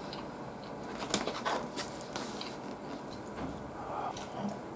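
Chewing and wet mouth sounds of someone eating with chopsticks, with a few short, irregular clicks.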